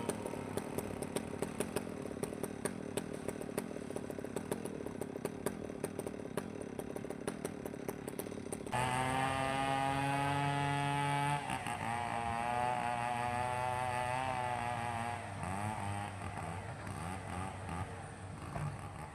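Hitachi hydraulic excavator's diesel engine running while it works, with a rapid rattle of clicks over the engine for the first half. About halfway in the sound changes abruptly to a louder, steadier engine note whose pitch wavers up and down as the machine works.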